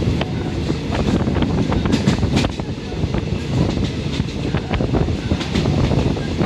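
Passenger train running, heard from inside the carriage: a steady low rumble of wheels on track with irregular clicks and knocks from the rail joints.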